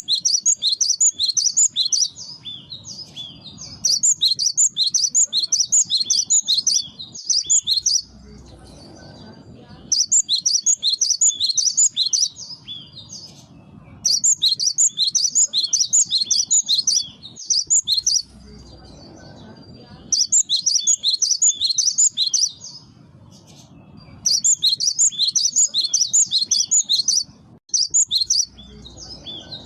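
Cinereous tit (gelatik batu) singing vigorously in bursts of rapid, high chirping notes, each phrase lasting about two to three seconds. The phrases repeat every four seconds or so, about seven times, with a low dull noise in the pauses between them.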